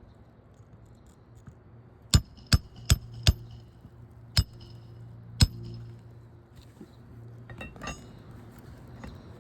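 Hammer blows on a roof snake, driving roofing nails back through a shingle. There are six sharp metallic strikes with a short ring: four in quick succession about two seconds in, then two more about a second apart, and a few faint clicks near the end.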